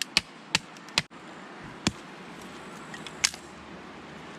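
Sharp chopping blows on wood, three in quick succession and then two more spaced out.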